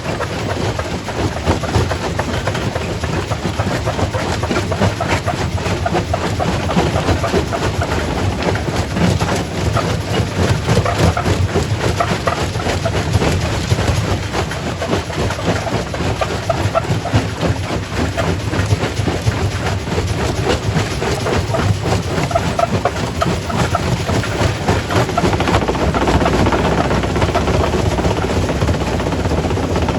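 Quarry primary rock crusher running and crushing stone: a dense, continuous crunching and clattering of rock over a heavy machine rumble. The low rumble grows stronger near the end.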